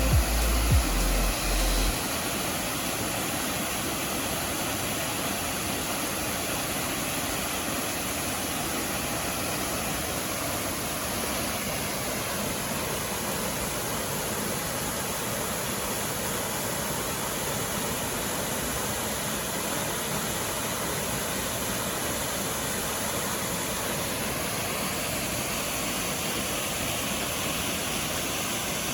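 Steady rushing of falling water from a waterfall, an even noise with no change in level.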